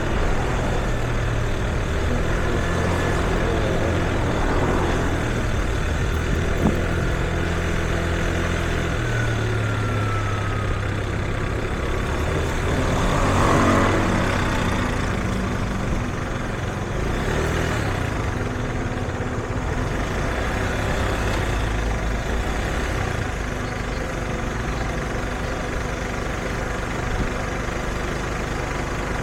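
Street traffic: heavy vehicle engines idling and running with a steady low hum, and one vehicle passes close by about halfway through.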